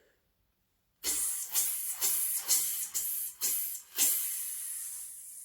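Breathing exercise of voiced 'fizz' hisses from a singer: a quick run of short fizzes, then one long fizz that trails off as the breath runs out.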